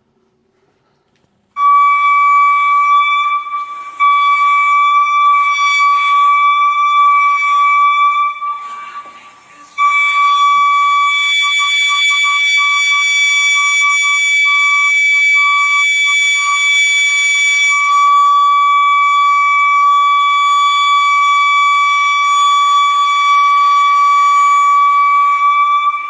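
A steady, alarm-like high-pitched tone with overtones: the unexplained noise a town in Oregon has been hearing for weeks. It starts about a second and a half in, fades away about a third of the way through, then comes back within a couple of seconds and holds steady.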